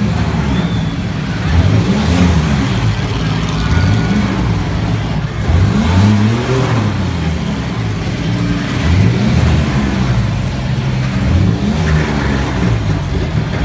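Engines of several bone-stock demolition derby cars revving up and down at once, their pitches rising and falling over one another.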